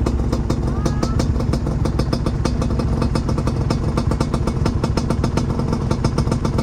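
Trail motorcycle engine running steadily with a fast, even beat.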